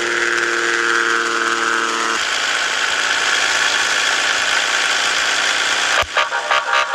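Scania S 450 truck's engine running steadily, with a held tone over it for about the first two seconds. About six seconds in, the sound changes abruptly into a quick run of sharp knocks.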